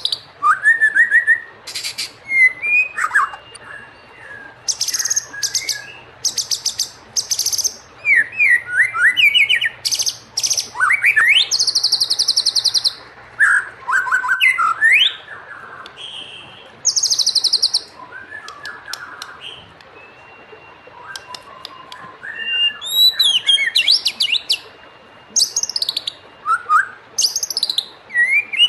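White-rumped shama (murai batu) singing: varied whistled phrases that glide up and down, broken again and again by fast, high, buzzy rattles.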